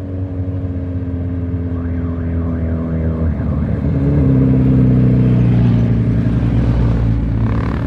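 Motorcycle engine running at a steady pitch. About three seconds in its note shifts, and it then gets louder. A faint warbling tone sounds in the background about two seconds in.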